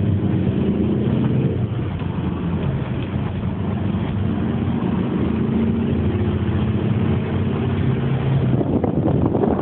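Volkswagen Golf engine running under way, heard from inside the cabin with road noise, its note holding fairly steady. A rushing wind and road noise grows near the end.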